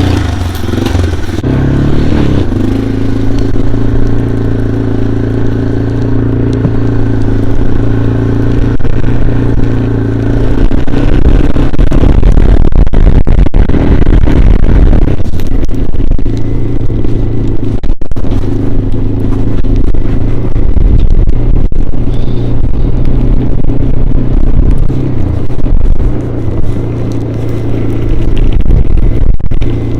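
Four-wheeler (ATV) engine running steadily under way, its note mostly even with a few brief dips, over a heavy low rumble.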